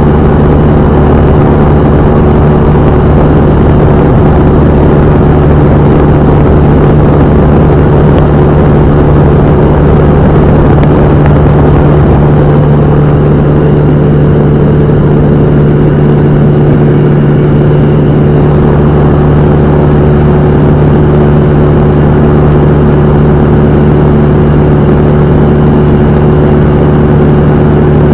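Cessna 172M's four-cylinder Lycoming engine and propeller running steadily: a loud, unchanging drone with a constant hum.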